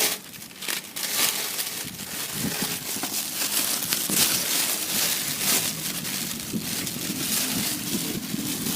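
Plastic packaging rustling and crinkling as it is handled, a steady crackle of small clicks, with a faint low hum joining in after about six seconds.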